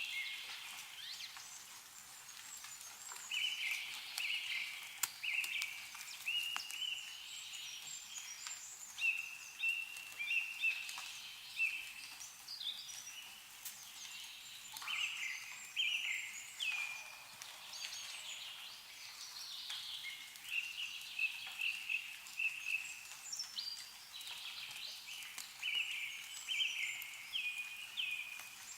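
Small songbirds chirping over and over in short calls, many of them stepping down in pitch, with a few sharp drips of meltwater falling from snowy trees.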